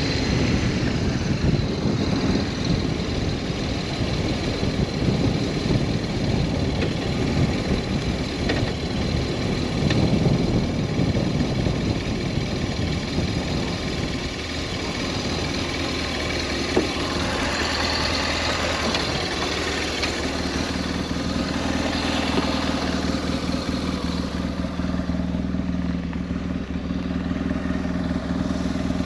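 BMW R1200S boxer-twin motorcycle engine running on the road, with wind rushing over the microphone. The wind noise is heavier in the first half; in the later part the engine note becomes steadier and clearer.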